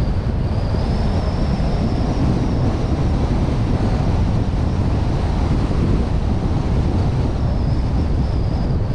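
Steady wind rush and low rumble on the microphone of a vehicle-mounted action camera while driving. A faint high whine comes and goes over it.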